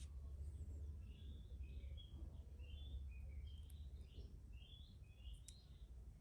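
Faint, quick bird chirps repeating over a steady low hum, with a couple of light clicks near the end.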